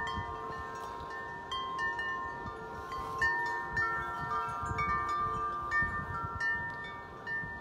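Wind chimes ringing constantly in strong wind, many overlapping tones struck again and again. Gusts of wind rumble on the microphone underneath.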